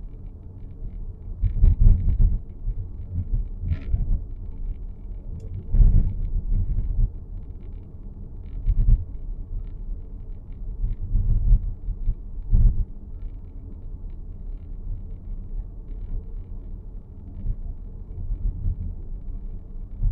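Low rumble of road noise inside the cabin of a 2023 Nissan X-Trail e-POWER on the move, with irregular short knocks and clicks every second or few: the abnormal noise coming from the dashboard.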